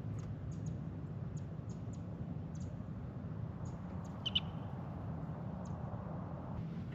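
Calm-water kayaking ambience: a steady low rumble with scattered light ticks and drips, and one short high chirp about four seconds in.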